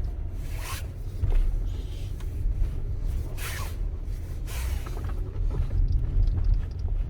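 Rubbing, scraping noise from a Tesla's steering as the wheel is turned: about four short swishes of under a second each over a steady low cabin rumble. The owner links it with the steering having gone stiff.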